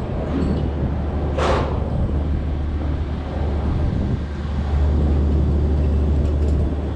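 A crane's diesel engine running steadily, getting louder about five seconds in, as the boom is lowered. A short hiss about a second and a half in.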